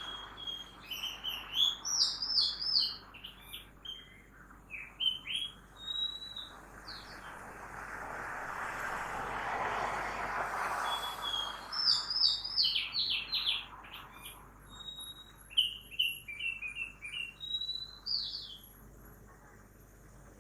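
A songbird singing two bouts of quick, varied whistled notes and trills, with a pause between them. In the pause, a passing vehicle's noise swells and fades.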